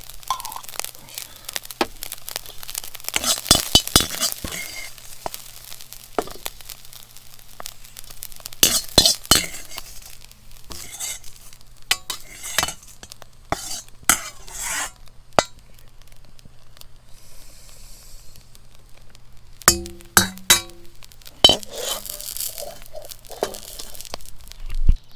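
Fried rice sizzling in a wok, with a spatula clinking and scraping against the pan in irregular clusters as it is stirred.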